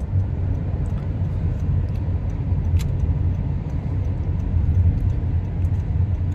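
Steady low road and tyre rumble inside the cabin of a Honda CR-V hybrid driving at about 40 mph.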